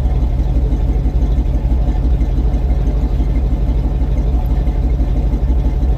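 1978 Chevrolet C10 pickup's engine idling steadily with an even, rapid exhaust pulse. It is running on a rebuilt carburetor after sitting unused for a few years.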